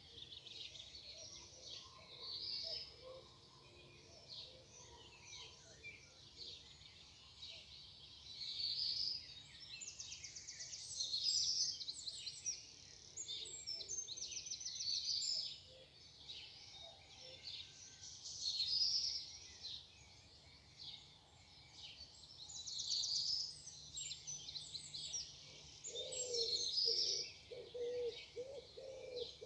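Several small songbirds singing over one another, with bright phrases and fast trills. A pigeon starts cooing low about three-quarters of the way through.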